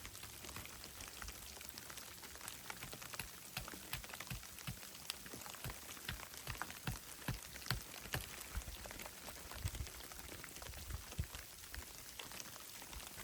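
A dense, irregular patter of many small ticks over a faint hiss.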